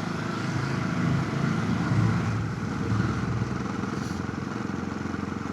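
Motorcycle engine running under way, its note swelling and easing a little every second or so, with steady wind and road noise on a helmet chin-mounted camera.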